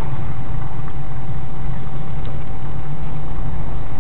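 Steady vehicle engine and road noise, loud and unchanging, with a faint constant whine above it.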